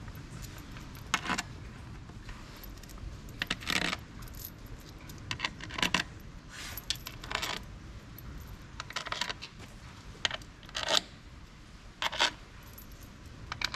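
Small metal screws clinking as they are handled and picked out, in a dozen or so short, irregular clinks.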